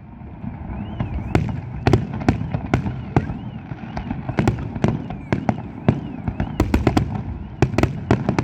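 Fireworks display: a rapid, irregular string of sharp bangs over a steady rumble, the bangs bunching into dense volleys near the end.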